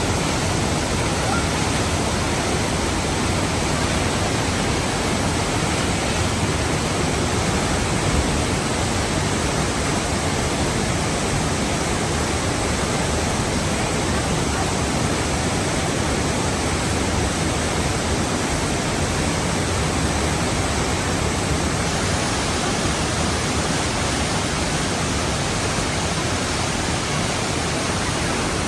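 Steady, even rushing noise that runs unbroken, with no separate events in it.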